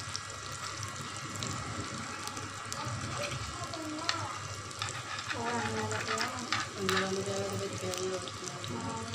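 Beef seekh kababs sizzling steadily as they fry in ghee on a tawa over low heat. A metal fork clicks and scrapes against the pan now and then as the kababs are pushed and turned.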